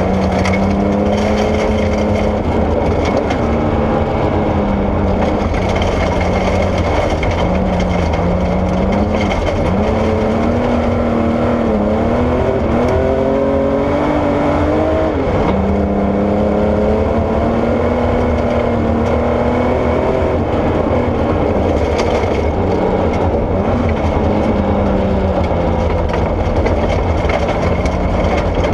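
Porsche 964 rally car's air-cooled flat-six engine under hard driving, its pitch rising and dropping again and again through gear changes and lifts. It runs over a dense, steady rush of gravel under the tyres.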